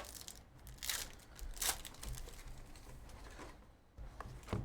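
Trading card pack wrappers crinkling and tearing as packs are opened and cards handled: several short rustles about a second apart.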